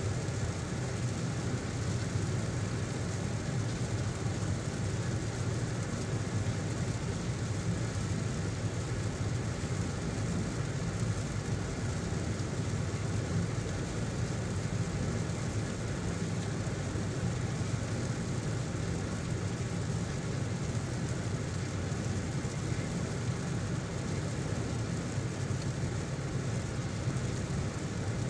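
A car driving in heavy rain: a steady low road-and-engine rumble under an even hiss of rain.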